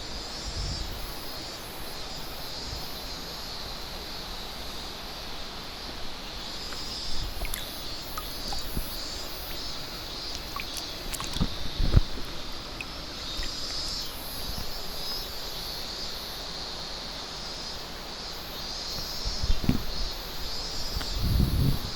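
Outdoor ambience of flowing stream water with a pulsing high insect or bird chorus, broken by a few low bumps, the loudest about halfway through and near the end.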